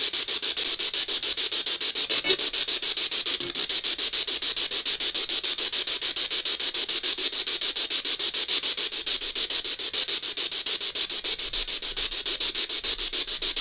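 Spirit box sweeping through radio stations: a steady, rapidly chopped static hiss.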